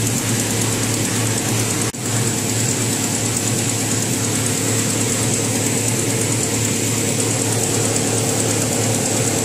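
Kia Sportage 2.0 engine idling with its power steering pump running, a steady mechanical drone, while air is being bled from the freshly refilled power steering system and the reservoir level is low. The sound dips out briefly about two seconds in.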